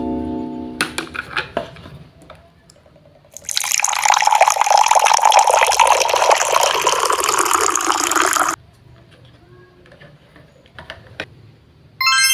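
Water running for about five seconds from a toy kitchen set's faucet, starting and stopping abruptly, with a few small plastic clicks around it. A ringing chime fades out at the start and another chime sounds near the end.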